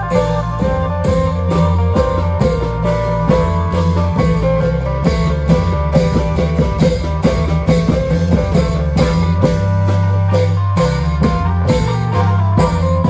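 An Isan klong yao band playing amplified: a plucked-string melody over deep held bass notes and busy, rapid drumming.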